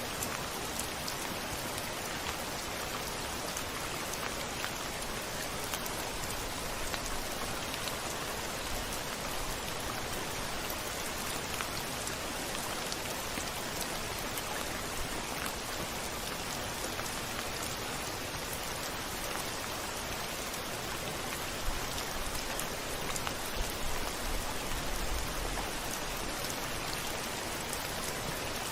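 Steady heavy rain pattering on a window pane, with scattered individual drop ticks. A few brief low rumbles come near the end.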